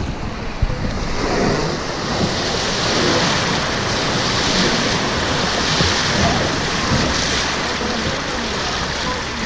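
Rushing river water, a steady hiss of churning water, with gusty wind rumbling on the microphone.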